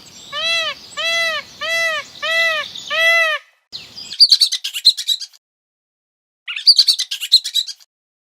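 Bird calls: five short, arched, evenly spaced calls in the first three seconds, then two bursts of rapid, high-pitched chirping.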